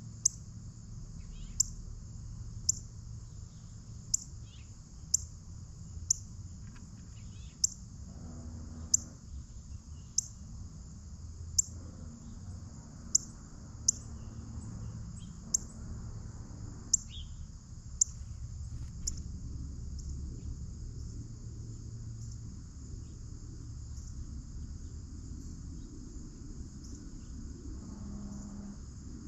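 Steady high-pitched insect chorus of crickets, with a sharp tick about every second and a half through the first two-thirds, a few faint bird chirps, and a low background rumble.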